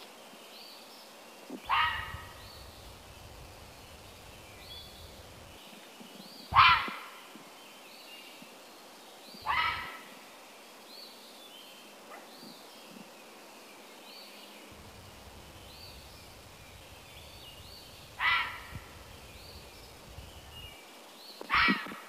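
Birds calling outdoors: a loud, short rising call repeated five times, a few seconds apart, over the faint high chirps of smaller birds.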